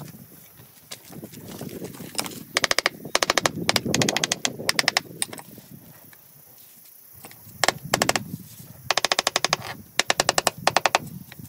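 A hammering power tool working on stone or masonry: short bursts of rapid, sharp impacts, stopping and starting, with a quieter pause in the middle.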